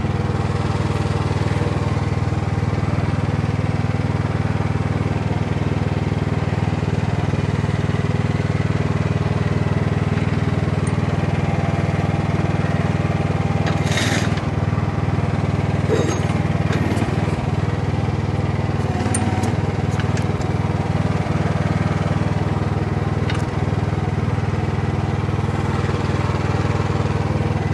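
The Jansen MB 500's small engine running steadily while the machine is worked through its functions. A few brief, sharper mechanical sounds come over it about halfway through.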